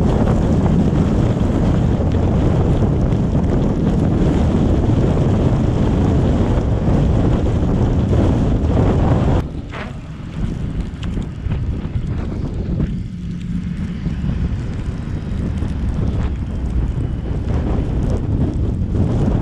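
Wind buffeting the microphone over the rumble of a moving car in a snowstorm. The noise drops sharply about halfway through, then builds back up.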